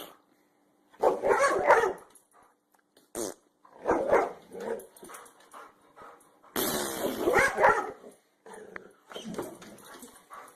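A dog barking and growling in several bursts with short pauses between them; the longest burst comes about two-thirds of the way through.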